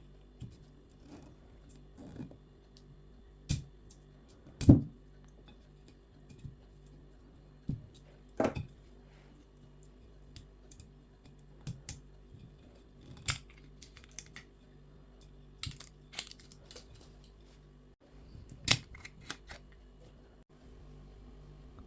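Irregular clicks and knocks of objects being handled and set down, the loudest about five seconds in, over a faint steady hum.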